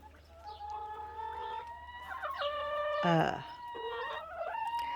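Chickens calling in a coop: several long, drawn-out calls overlap one another, with a louder, lower call about three seconds in.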